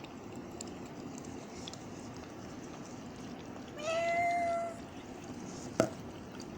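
A cat meows once, a single held call of about a second, over a steady background hiss. A sharp click follows about two seconds later.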